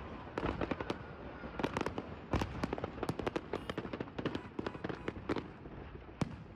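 A stockpile of fireworks going off in a burning house: a rapid, irregular string of bangs and crackles, with a heavier bang about two and a half seconds in.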